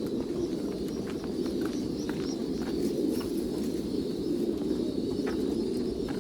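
Many pigeons cooing together, a steady low chorus with no gaps, with scattered short clicks and chirps over it.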